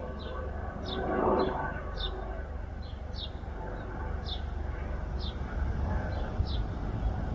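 A small bird repeating a short, high, downward chirp about once a second, over a steady low rumble with a faint hum. A brief rush of noise comes about a second in.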